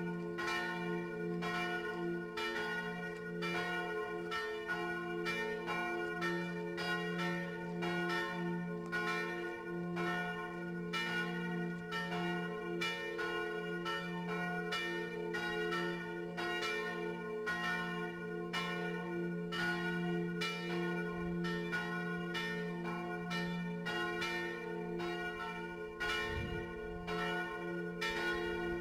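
Swinging church bell ringing to call people to service. It is struck in a fast, even rhythm and its deep hum rings on steadily between the strokes.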